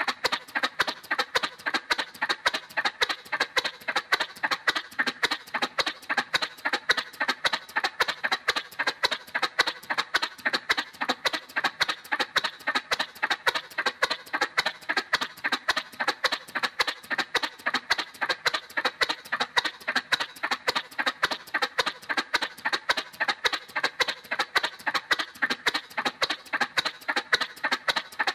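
Cartoon motorcycle sound effect: a fast, even putt-putt of sharp pulses that repeats without change, thin and high, with no deep engine rumble.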